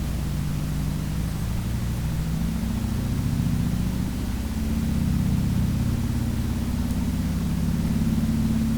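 Harley-Davidson Sportster's air-cooled V-twin engine running while riding, its pitch rising and falling a few times with speed changes, over a steady hiss of wind.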